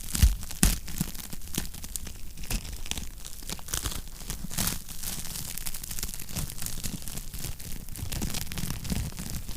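Wood fire crackling in a fireplace: irregular snaps and pops over a low rumble of flame, with two louder pops just after the start.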